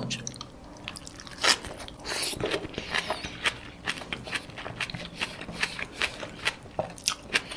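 Close-miked mouth sounds of a person chewing a mouthful of blanched pak choy: an irregular run of short, wet clicks and crunches, with a louder bite about one and a half seconds in.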